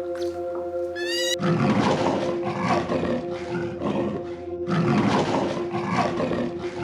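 A cat's meow ends about a second in, then a large wild animal roars in two long, rough, pulsing bouts. Background music with steady held notes plays underneath.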